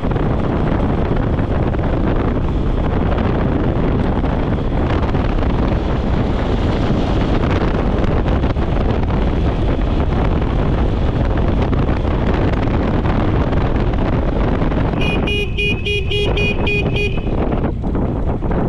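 Steady rumble of wind and motorcycle engine while riding, then a vehicle horn beeping in a quick run of about eight short toots, roughly four a second, for about two seconds near the end.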